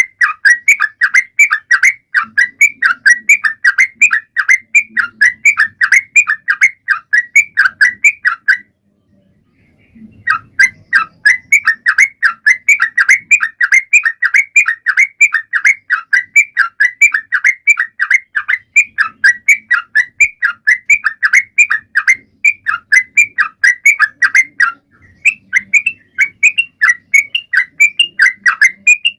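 Yellow-vented bulbul (trucukan) singing vigorously in a fast, unbroken run of short, clear notes, about four or five a second. The song breaks off for about a second and a half roughly a third of the way in, then starts again.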